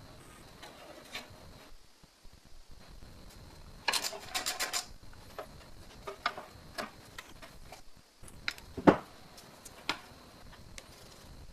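Workshop handling sounds of metal parts and tools: scattered clicks and clinks, a quick rattling run of clicks about four seconds in, and one louder knock near nine seconds.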